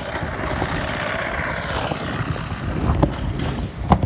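Dirt bike engine running, its pitch gliding down about a second in as it eases off.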